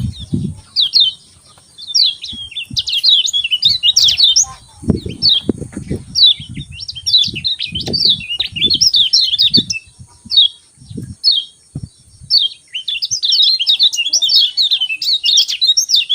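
Kecial kuning songbird giving rapid, high 'ciak ciak' chirps: short sharp notes in quick runs and dense bursts, with brief pauses between. Dull low thumps come and go alongside.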